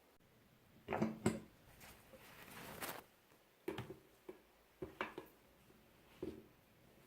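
Hard objects being handled and set down: a series of separate knocks and taps, about six in all, with a soft rustling hiss that builds for about a second in between.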